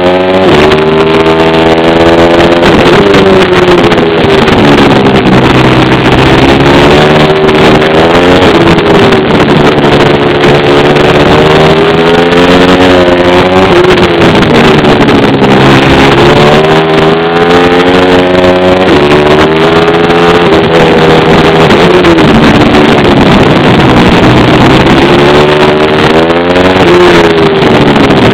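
A pit bike's small single-cylinder engine is ridden hard and runs very loud. Its pitch climbs on each burst of throttle and drops away again every two to four seconds, over and over.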